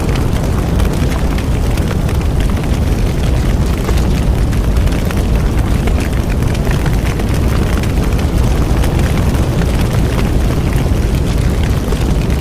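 Bonfire burning: a steady low rumble of the flames with constant fine crackling and popping of the wood.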